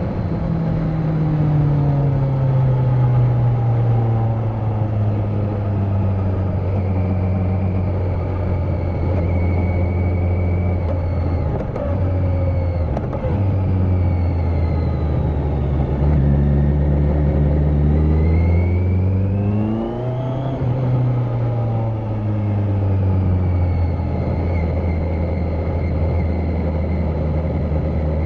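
Kawasaki Z900 inline-four engine with its catalytic converter removed, running under way. The revs fall at the start and hold steady with two short dips near the middle. About twenty seconds in they climb sharply, drop back, and then run steady.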